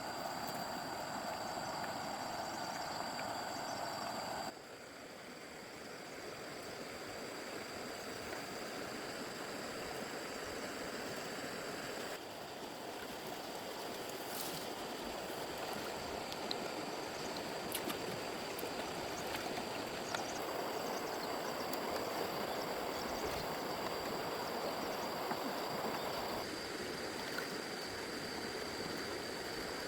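Steady rushing of running water, in several clips joined by abrupt cuts, with a faint high whine over it.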